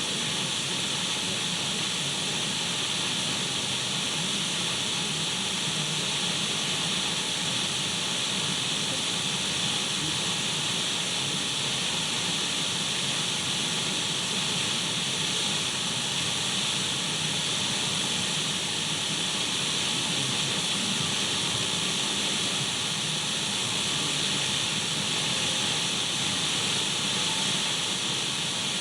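Radio static: a steady, unchanging hiss of an untuned radio, brightest in the upper middle with a faint low hum beneath.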